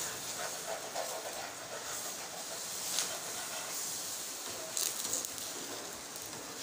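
Akara (bean cake) batter frying in a thin layer of oil in a nonstick pan: a steady sizzling hiss with a few sharp ticks, the strongest about three seconds in and again near five seconds.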